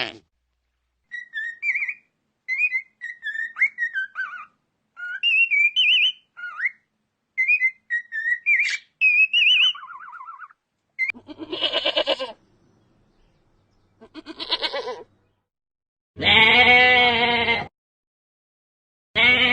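A bird's quick chirping, whistled notes for the first ten seconds or so, then four quavering animal bleats, the third the longest and loudest.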